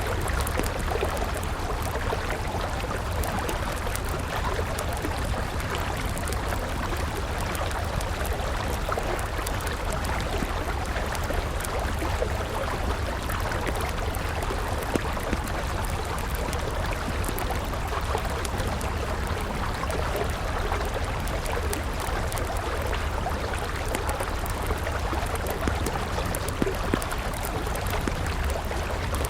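River water flowing steadily, with sharp crackles and pops from a burning wood campfire scattered throughout and a couple of louder pops.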